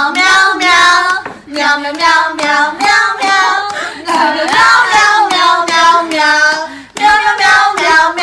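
High-pitched, child-like voice singing a quick tune in short syllables, with brief breaks between phrases.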